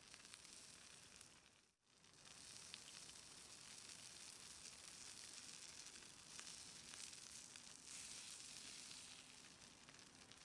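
Food, likely meat, sizzling faintly on a small iron griddle plate over a small fire: a steady hiss with tiny crackles. It drops out briefly just before two seconds in.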